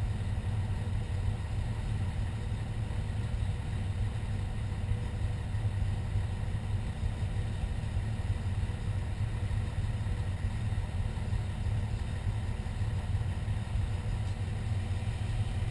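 Fire engine's diesel engine idling, a steady low rumble that does not change.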